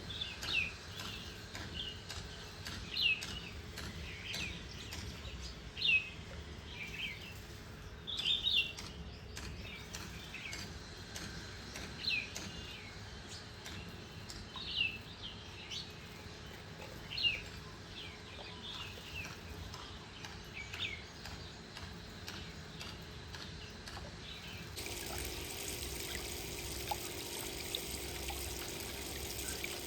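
A small bird calling over and over, short falling chirps every second or few seconds. About 25 seconds in, the chirps give way to a steady hiss with a low hum.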